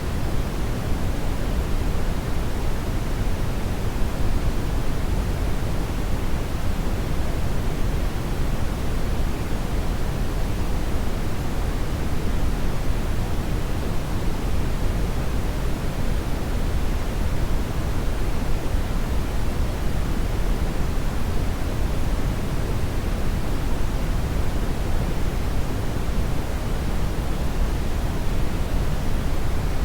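Hair dryer blowing steadily: a constant, even rushing noise, heaviest in the low end, that does not change.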